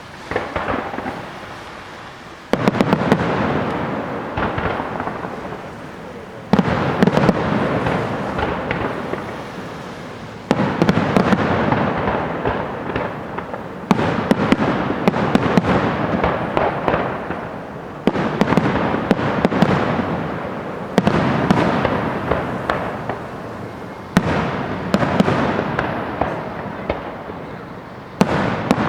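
Professional aerial fireworks: shells bursting about every three to four seconds, each sharp bang followed by dense crackling that fades away before the next.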